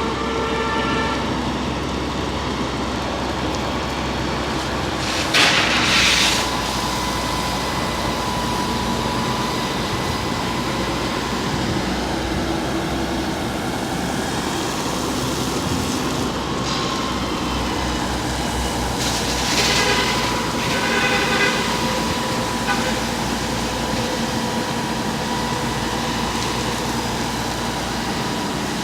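Fire truck's engine running steadily, with two brief louder rushing bursts, one about five seconds in and one around twenty seconds in.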